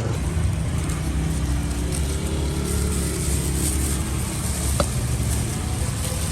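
Motor vehicle engine running close by over street traffic noise, its hum rising a little in pitch around the middle; a single sharp click about five seconds in.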